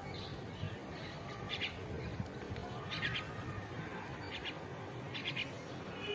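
Short bursts of rapid, high chirping calls, repeated five times about every second and a half, over a steady low background noise.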